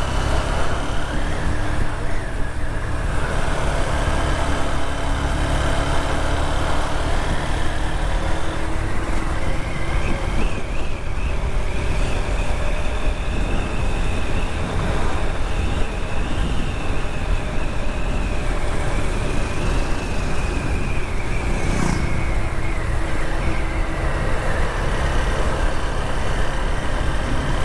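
Motorcycle riding at road speed: heavy wind rush on the helmet microphone with the visor open, over the bike's running engine. An engine whine wavers in pitch through the middle stretch.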